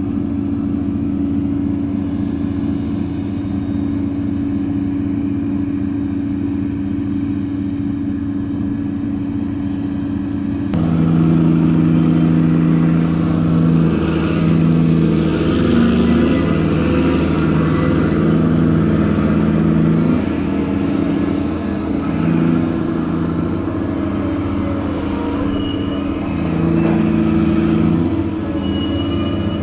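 Diesel engine of a gut ship's grab crane running steadily. From about eleven seconds in it works harder and louder under load, its pitch stepping up and down, then it eases back near the end.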